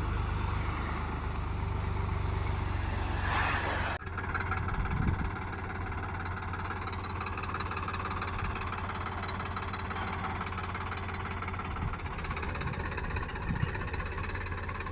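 Sonalika DI-47 RX Sikander tractor's diesel engine running steadily at low revs, with a sudden cut about four seconds in, after which it carries on at much the same pace.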